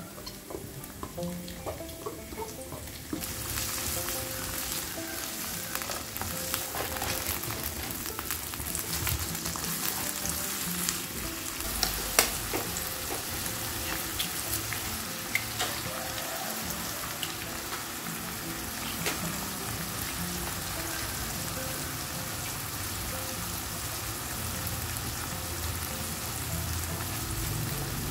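Frozen mixed vegetables, shrimp and egg sizzling in hot oil in a nonstick wok, the sizzle growing louder about three seconds in. A single sharp knock comes near the middle.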